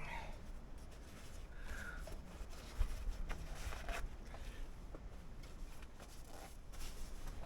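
Faint handling and shuffling sounds of someone moving about and picking things up, with one sharp knock about three seconds in.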